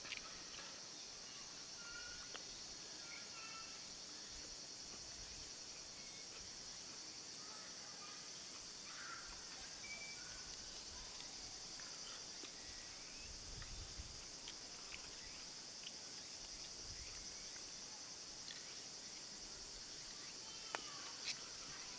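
Steady, high-pitched insect chorus, with a few faint short chirps and clicks scattered through it.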